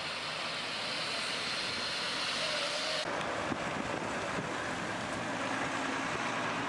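Steady road and engine noise of a car driving. The sound changes abruptly about three seconds in, where it becomes duller.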